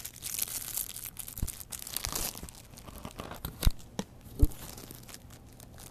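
Plastic packaging crinkling and rustling as it is handled, with a few sharp knocks of hard plastic pieces; the two loudest knocks come about three and a half and four and a half seconds in.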